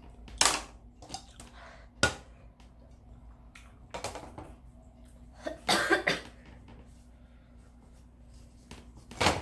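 A person coughing in short, loud bursts, about five times across several seconds, while eating extra-spicy Buldak fire noodles.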